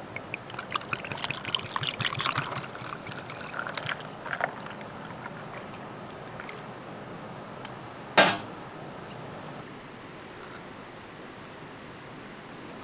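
Liquid pouring and splashing in irregular spurts for about four seconds, then a single sharp clack about eight seconds in, the loudest sound.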